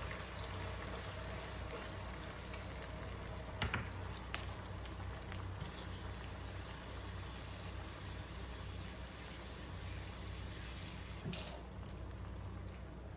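Water being poured into a cooking pot over browned chicken pieces and seasoning, a steady hiss of liquid, with a few light knocks of a container or utensil against the pot.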